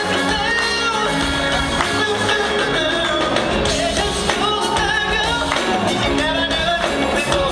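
A vocal group singing a pop-soul song in harmony over a backing band.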